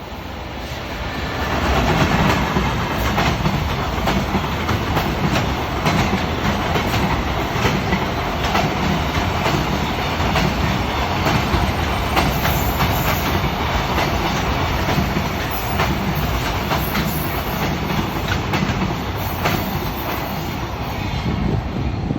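Freight train of Koki container flatcars hauled by an EF210 electric locomotive passing close by, its wheels clacking over rail joints in a steady rhythm. The noise rises about a second and a half in and holds loud until the train's passing begins to fade near the end.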